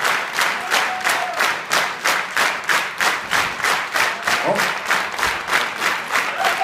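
Audience applauding, clapping together in time at a steady beat of about three claps a second.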